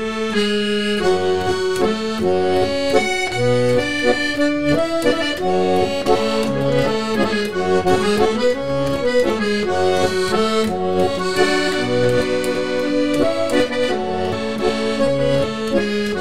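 A Russian garmon (button accordion) playing the instrumental introduction to a romance: a melody over sustained chords and bass notes.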